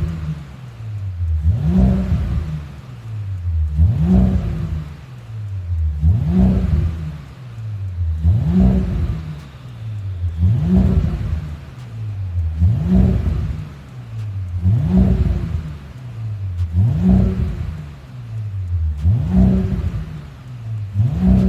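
Audi A7 55 TFSI's turbocharged 3.0-litre V6 being blipped through a custom end-muffler exhaust, about ten quick revs that each rise and fall back, one every two seconds or so.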